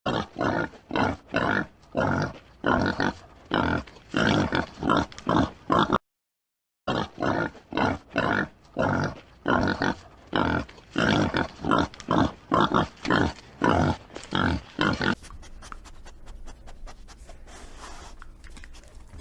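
Pigs grunting in quick short bursts, two or three a second, with a brief cut to silence about six seconds in; the grunting gives way to quieter rustling and scratching for the last few seconds.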